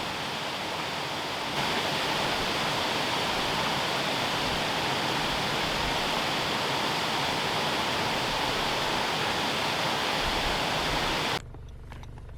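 Mingo Falls waterfall rushing: a steady, dense roar of falling water, slightly louder after the first second or two, cutting off abruptly near the end.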